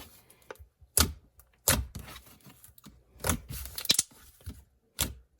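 Glossy slime being worked by hand, making sharp clicks and bubble pops, about half a dozen spaced irregularly over a few seconds.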